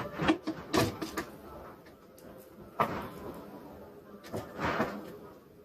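Kitchen handling sounds: a few sharp knocks and clatters, with a longer scraping or rustling sound near the end.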